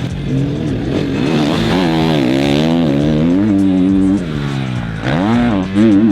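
Dirt bike engine revving as it is ridden, its pitch climbing and dropping again and again with the throttle, with a sharp dip and rise about five seconds in.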